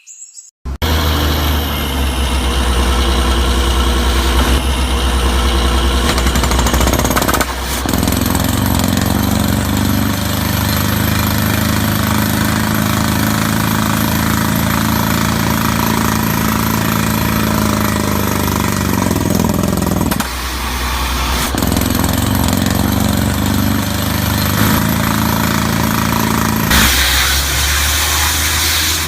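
Borewell drilling rig running steadily and loudly, with engine drone and percussive drilling noise. It dips briefly about 20 seconds in, and a strong hiss joins near the end.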